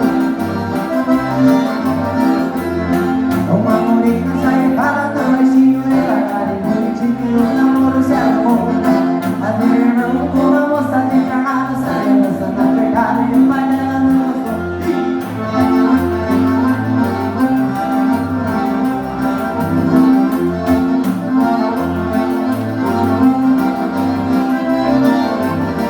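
Gaúcho dance band music led by an accordion, with sustained chords over a bass line pulsing in a steady rhythm.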